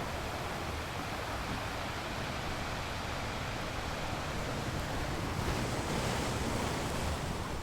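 Ocean waves breaking on a beach, a steady surf wash that swells slightly near the end.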